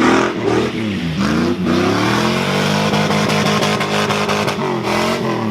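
Mazda Miata's four-cylinder engine revving hard. Its pitch drops and climbs twice in the first couple of seconds, then climbs and holds high before falling off near the end.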